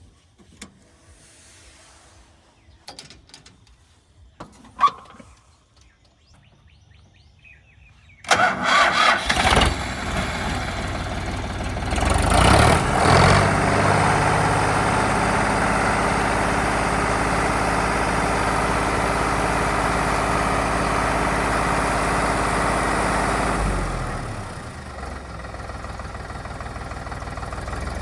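A few faint clicks and knocks, then about eight seconds in a Sonalika DI 50 RX tractor's diesel engine is cranked and fires. It revs up twice briefly, runs steadily, and settles to a quieter idle near the end.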